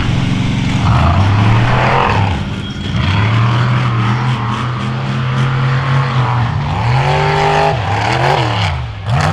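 Off-road vehicle engine pulling steadily, then revved up and let back down twice near the end.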